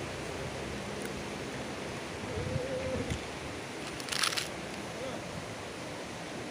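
River water rushing steadily, with a short voice-like sound about two and a half seconds in and a brief rustle about four seconds in.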